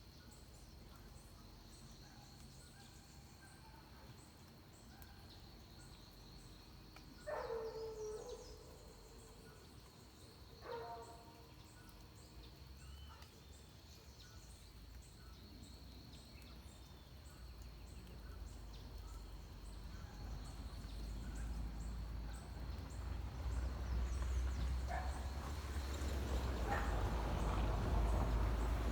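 Atlantic forest dawn ambience: a steady high insect drone with faint regular ticking above it. Two loud calls that slide down in pitch sound about three and a half seconds apart, a third of the way in. A low rumble builds over the second half.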